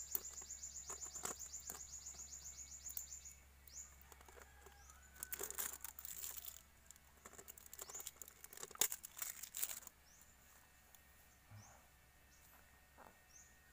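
A small bird's rapid trill of high repeated notes for the first three seconds or so, then faint single chirps later. Two bouts of rustling and clicking handling noise, about five and nine seconds in, are the loudest sounds.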